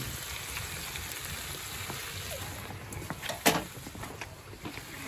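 Pork belly sizzling on an iron griddle plate, a steady hiss with a few light clicks and one sharper click about three and a half seconds in.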